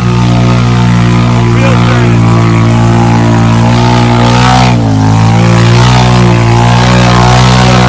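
Off-road vehicle engine running at steady, high revs, with a brief drop and pick-up in revs about five seconds in.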